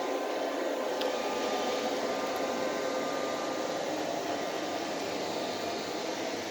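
iLife V3s Pro robot vacuum running steadily, its suction fan and brushes giving an even whir with faint steady tones, with a small click about a second in.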